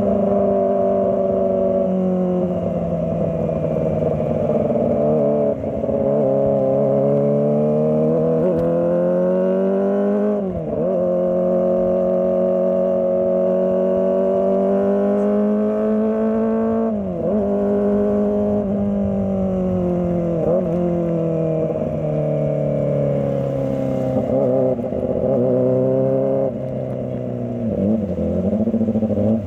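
Kawasaki ZX-25R's 250 cc inline-four engine running under light throttle while ridden through slow traffic, its pitch rising and falling steadily, with brief sharp drops and recoveries about ten and seventeen seconds in.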